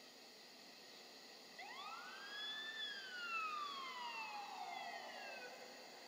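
Fire engine siren sounding a single wail over a steady hiss. It starts about a second and a half in, rises quickly, then falls slowly over about three seconds.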